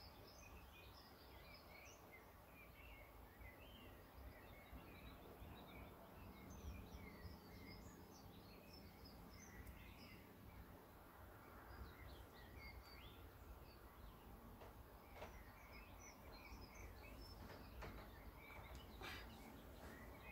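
Faint songbirds chirping over a low background rumble, with many short chirps scattered throughout.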